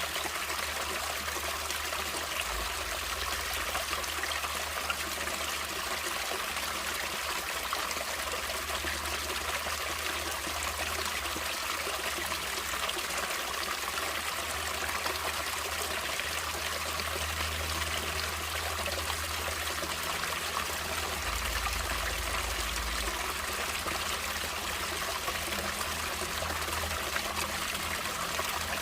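Running water of a natural stream, flowing and trickling in a steady, unbroken rush.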